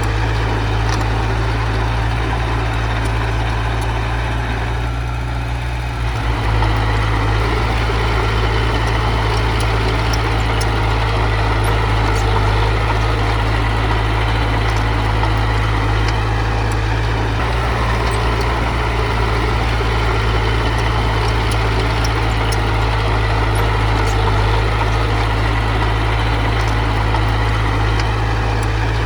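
Heavy diesel engine running steadily, easing off briefly about five seconds in and then picking up again.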